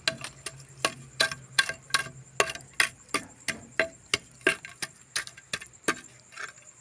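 A quick run of sharp clicks or taps, about three a second and slightly uneven, over a faint steady high-pitched tone.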